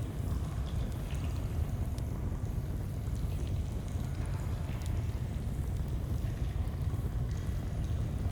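Flowing stream water as a steady low rush, with a few faint campfire crackles scattered through it.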